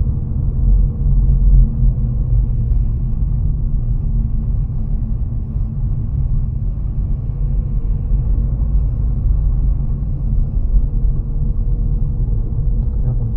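Steady low rumble of a car driving, the engine and tyres heard from inside the cabin.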